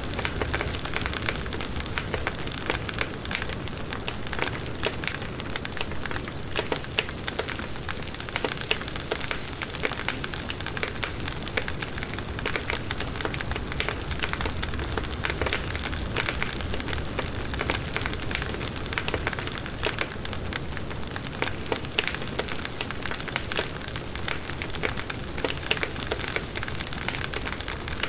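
Wood fire burning, with a dense, steady run of small crackles and pops over a low rush of flame.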